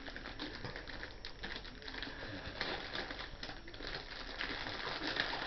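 Light, scattered taps and clicks of a toy helicopter's box being handled.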